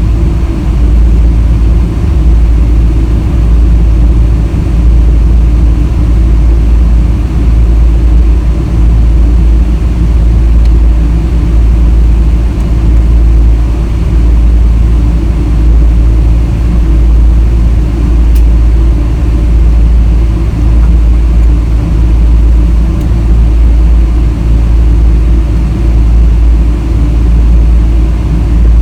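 Boeing 777-300 airliner cabin noise: a loud, steady low rumble of the engines and airflow.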